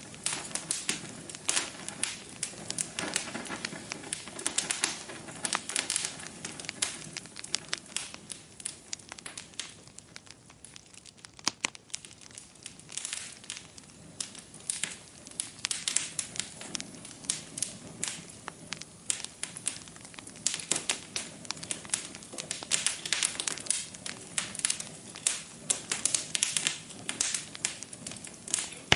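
Wood fire burning in a fireplace, with constant irregular crackling and popping over a soft hiss of flame; the crackles thin out for a few seconds near the middle, then pick up again.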